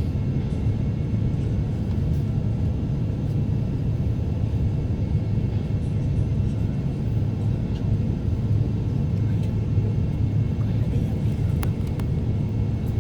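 Steady low rumble of an Airbus A350's passenger cabin in flight: engine and airflow noise heard from inside, even throughout, with a few faint ticks.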